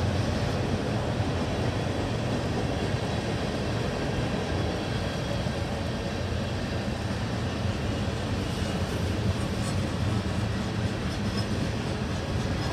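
A CSX freight train rolling past, its wheels and cars making a steady rumble.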